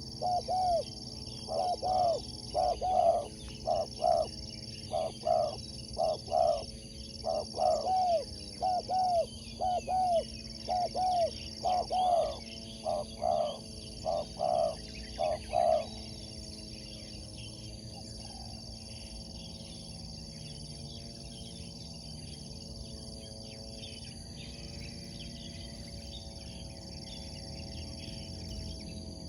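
Spotted dove (tekukur) cooing: a long run of short, arched coos, about one or two a second, that stops about halfway through. A steady high-pitched whine runs behind it throughout.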